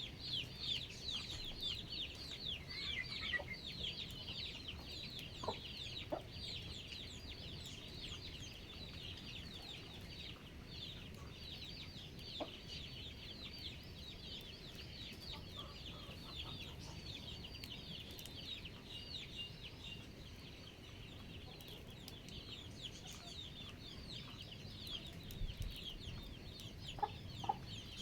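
Chickens calling: a continuous chorus of rapid, high cheeping, with a few short lower calls scattered through.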